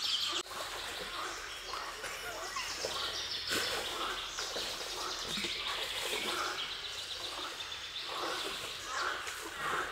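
Wild birds chirping and calling in woodland over a steady outdoor background hiss.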